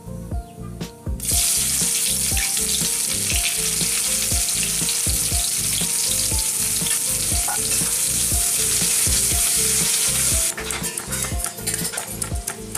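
Chopped onion hitting hot mustard oil in a steel wok and sizzling loudly, starting about a second in and cutting off after about nine seconds. Background music plays underneath. Near the end, a quick run of sharp clicks from a stone pestle crushing garlic on a flat grinding stone.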